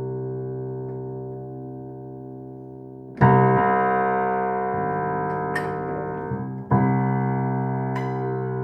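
Acoustic piano being tuned: several notes struck together and left to ring and slowly die away, with two loud fresh strikes about three seconds and nearly seven seconds in.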